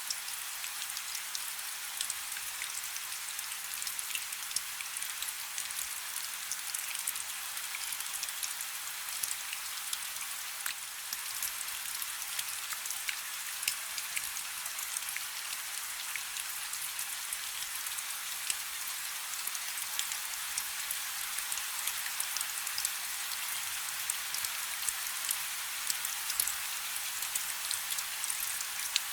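Steady rain falling on a river's surface: a continuous hiss with many individual drops ticking and splashing.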